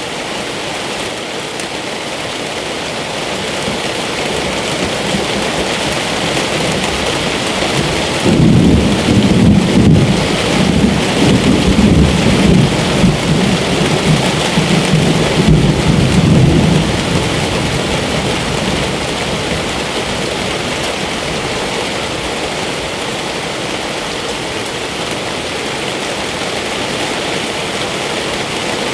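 Steady rain falling in a thunderstorm, with a long rumble of thunder starting about a third of the way in and lasting around eight seconds.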